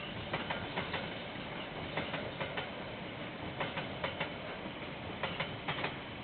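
Train wagons rolling past, their wheels clacking over the rail joints in groups of three or four clicks that repeat about every second and a half, over a steady rumble.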